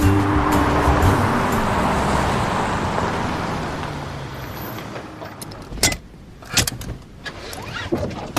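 A car driving, its road noise fading away over several seconds, followed by a few sharp clicks and knocks.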